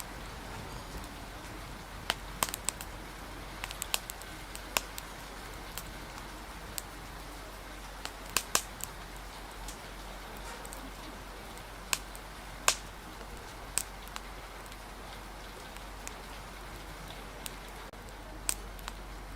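Steady hiss of rain and wind with a wood fire crackling, sharp irregular pops scattered throughout, a few of them louder.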